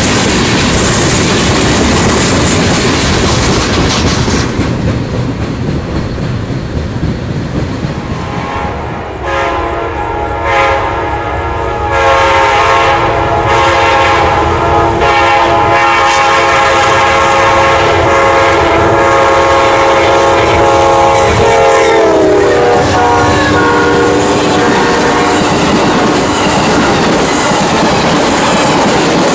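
A freight train of tank cars rolls past with steady wheel-on-rail noise. Then an approaching Amtrak passenger train's locomotive horn sounds a few short blasts and one long held chord, which drops in pitch as the locomotive passes. The rumble and clickety-clack of its stainless-steel passenger cars going by close at hand follow.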